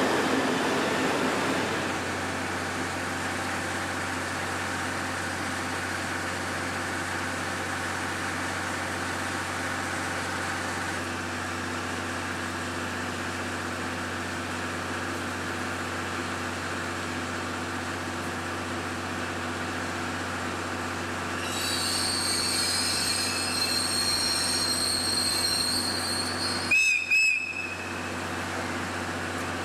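Passenger train running with a steady rumble and hum. About two-thirds of the way through, high-pitched wavering wheel squeal sets in for several seconds and ends in a brief loud sound.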